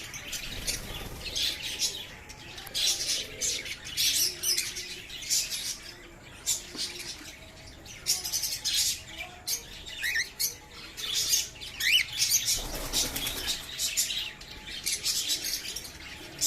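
Cockatiels chirping in quick, sharp notes, with a few short rising whistles and a brief flutter of wings about three-quarters of the way through.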